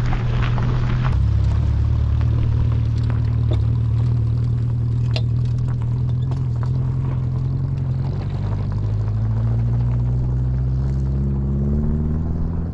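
Renault 4 van's four-cylinder engine running under way, a steady hum whose pitch climbs over the last few seconds as the revs rise, with a few short clicks and knocks.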